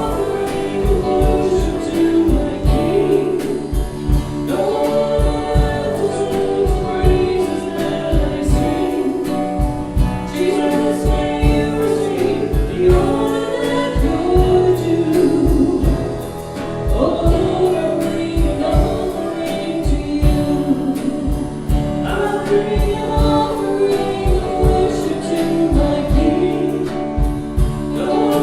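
Worship song: several voices singing over instrumental accompaniment with a steady beat.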